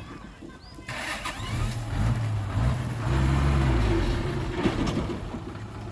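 A heavy vehicle engine running, quiet for the first second, then picking up and revving higher from about three seconds in before easing off near the end.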